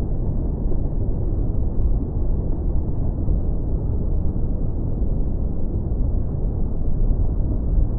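Tropical beach ambience: a steady, muffled low rumble of surf with no distinct events.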